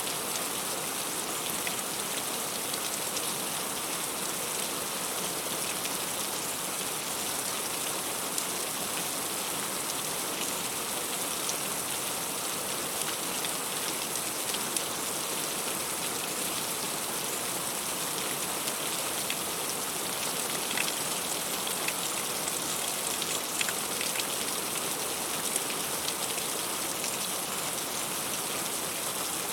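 Heavy rain falling steadily, with many small drops ticking sharply on leaves and fruit.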